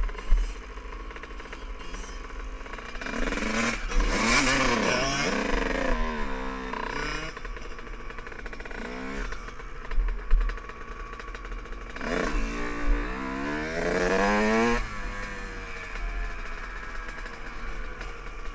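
Dirt bike engines revving up and down in two stretches of rising and falling pitch, with a lower steady engine hum between them. Two brief sharp knocks stand out, one at the start and one about ten seconds in.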